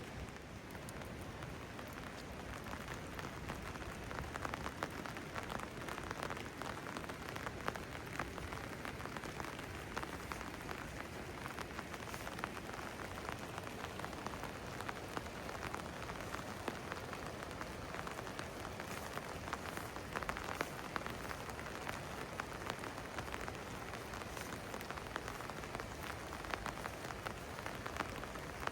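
Steady rain falling, with a dense patter of individual drops ticking on nearby surfaces over an even hiss.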